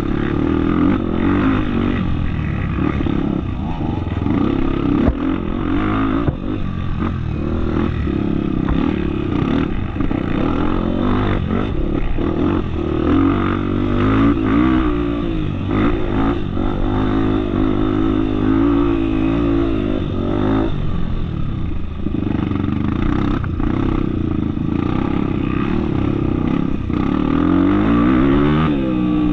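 Trail motorcycle engine running continuously, its pitch rising and falling again and again as the throttle is worked, with scattered knocks and rattles over rough ground.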